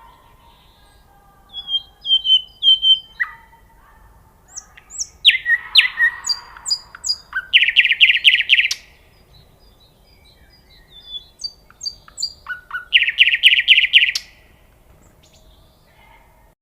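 A songbird singing in separate phrases of high whistled notes and quick sweeps, twice breaking into a rapid run of trilled notes, with short pauses between phrases.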